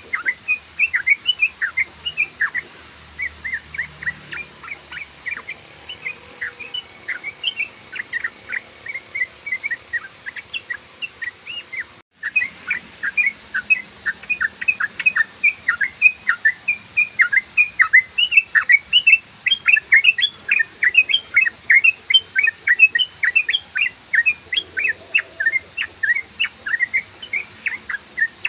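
Sooty-headed bulbul (trucukan) singing a fast, unbroken run of short chirping notes, the rapid 'ropel' song that keepers play as a lure to make other trucukan sing. The song cuts out for an instant about twelve seconds in, then carries on as before.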